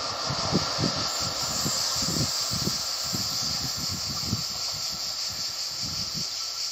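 Passenger train running away along the line, heard as a low, uneven rumble under a steady high hiss.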